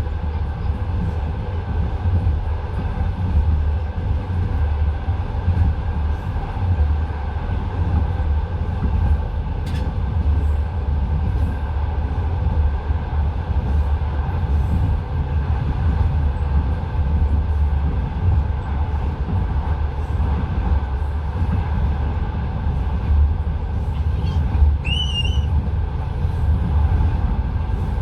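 Passenger train wheels running over the rails, heard from inside the carriage: a steady heavy low rumble. A brief high squeal comes about three-quarters of the way through.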